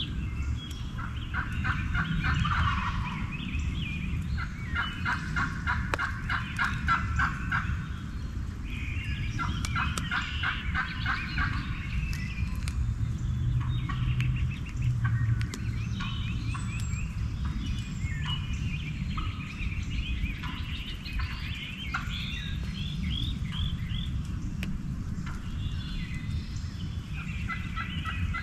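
Eastern wild turkey gobblers gobbling again and again, a rattling gobble every few seconds, with several birds sometimes overlapping. A steady low rumble runs underneath.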